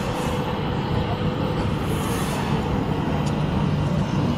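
Steady rumble of an express train's coach running on the rails as it pulls out of a station, heard from the open coach door.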